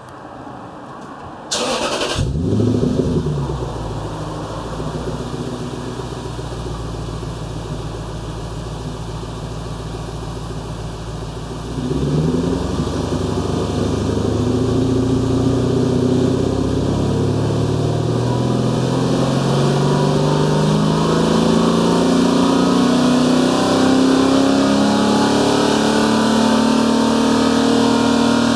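Lexus GS430's 4.3-litre V8 with a Suruga Speed loop-sound aftermarket muffler starting up: a brief crank, a flare as it catches, then a steady idle. About twelve seconds in the revs climb slowly and then hold at a higher steady speed.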